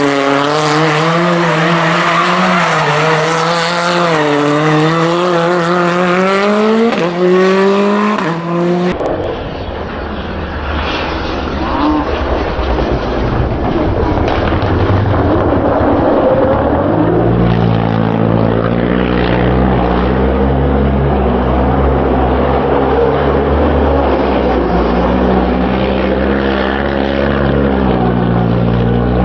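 Rally car engine revving up and falling back through gear changes for several seconds. After an abrupt cut comes a rough noisy stretch, then a steady low engine drone.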